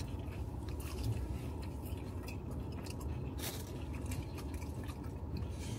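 People chewing and biting into fried food, a breaded pork chop, with soft crunches and one sharper crunch a little past halfway, over a steady low hum.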